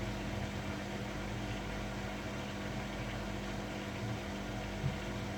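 Washing machine running its spin cycle, a steady motor hum with a low rumble from the drum. One brief knock sounds near the end.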